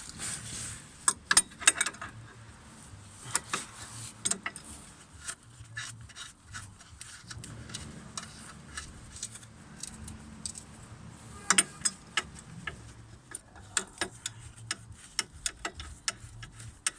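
Hand tools working on metal fasteners: scattered sharp metallic clicks and clinks, with a run of evenly spaced clicks over the last few seconds.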